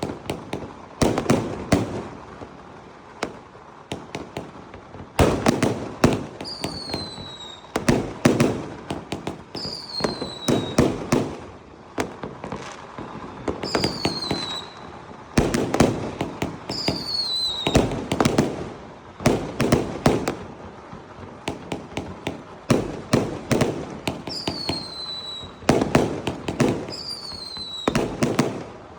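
Fireworks going off in quick succession: clusters of sharp bangs and crackles every second or two, with short whistles that fall in pitch from whistling shells going up between them.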